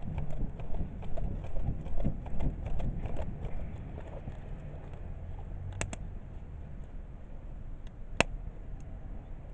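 Wood fire in a garden kamado, with irregular knocking and clatter for the first few seconds, then two sharp crackling pops later on.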